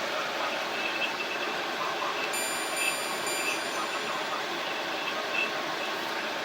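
Portable air conditioner running with a steady fan and air noise.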